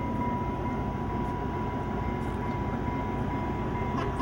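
Steady low rumble inside a passenger train car, with a thin, steady high whine over it.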